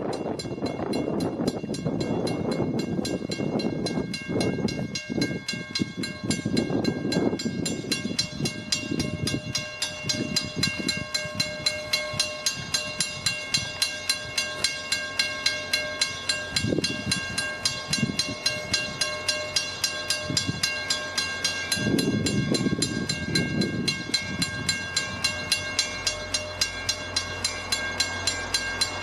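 Western Railroad Supply mechanical grade-crossing bell ringing with even, rapid strikes, about two a second. Each strike leaves a ringing tone. A train rumbles past, louder in the first few seconds and again about three quarters of the way through.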